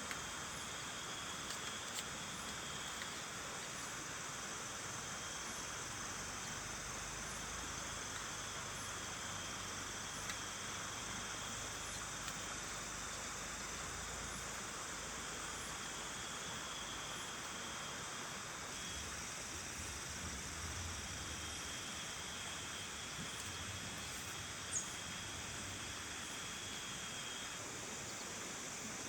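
Steady rain hiss with insects trilling continuously in the background. There are a few faint ticks and one sharper click about 25 seconds in.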